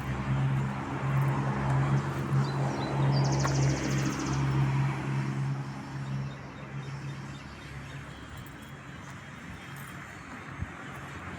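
A motor vehicle's engine hum and road noise, steady at first, then fading away about halfway through as it passes. A brief, rapid, high-pitched trill sounds a few seconds in.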